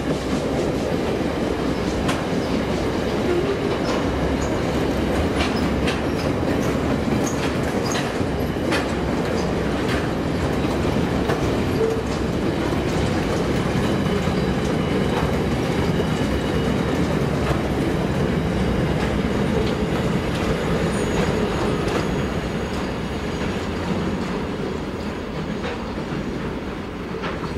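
Wagons of a long SCT interstate freight train rolling past, wheels clicking over the rail joints with a few faint high wheel squeals. The sound fades over the last few seconds as the end of the train passes and draws away.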